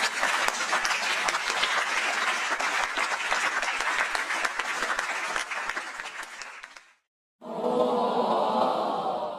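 Crowd applause, a dense patter of many hands clapping, fading out about seven seconds in. After a short break, about two seconds of many voices together.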